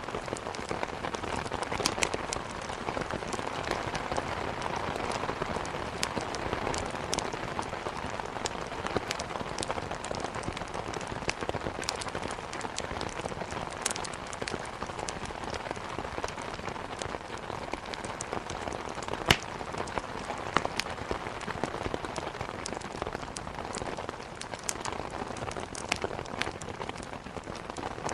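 Steady heavy rain hissing, with scattered sharp pops and crackles from burning firewood and one louder pop about two-thirds of the way through.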